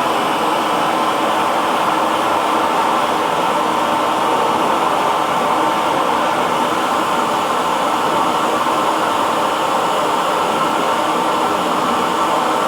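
Hair dryer blowing steadily: a constant, even rush of air with the motor's faint steady hum, unchanging throughout.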